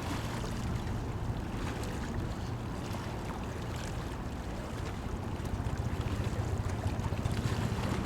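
A steady low engine drone with noise over it, growing a little louder and more pulsing after about five seconds.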